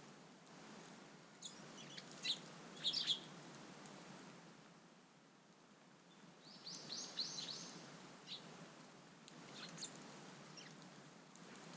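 Small garden birds chirping: short, high calls in scattered ones and twos, with a quick run of several descending notes around the middle.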